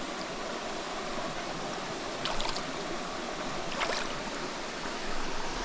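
Steady rush of a flowing rainforest creek, with two brief sharper sounds about two and a half and four seconds in.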